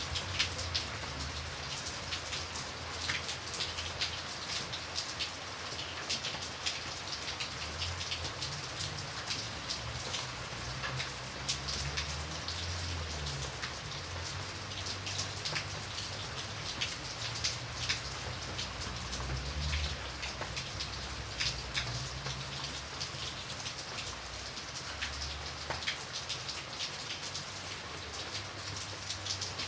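Steady rain falling: a dense hiss full of separate drop taps, over a low rumble that swells and fades.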